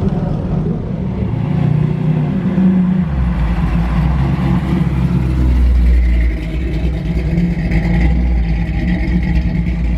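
A car engine running close by, with a deep low rumble that grows stronger about three seconds in.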